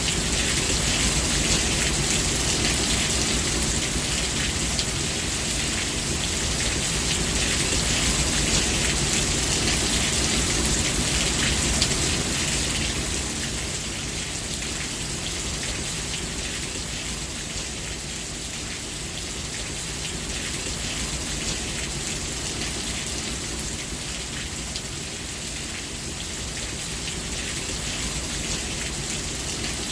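Steady rain falling, a dense hiss of many drops pattering on a surface, a little louder in the first half.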